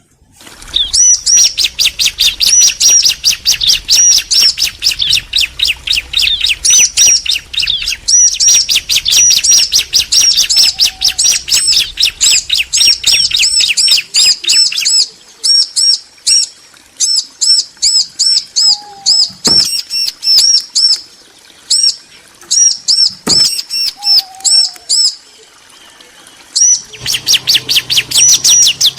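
Bar-winged prinias (ciblek), a female and a male, calling back and forth in rapid runs of high chirps. The chirping breaks up into short spaced phrases about halfway through and turns rapid again near the end.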